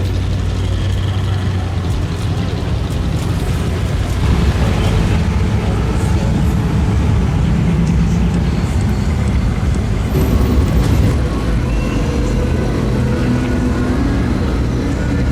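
Engines of classic cars running at low speed in slow cruising traffic: a steady, low engine sound with traffic noise.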